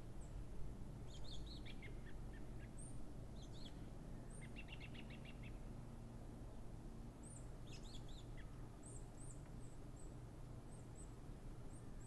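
Small songbirds chirping in a quiet outdoor ambience: scattered short, high chirps, a quick falling run of notes about a second in, and a rapid trill of about ten notes around four to five seconds in. A steady low background rumble runs underneath.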